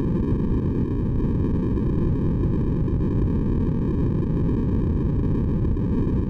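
Steady, deep synthetic white noise for sleep, a constant hiss-like rush weighted toward the bass and unchanging throughout.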